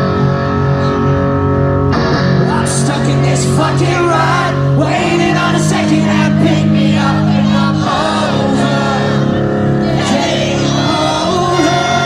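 Rock song with singing over guitar, the chords changing every couple of seconds.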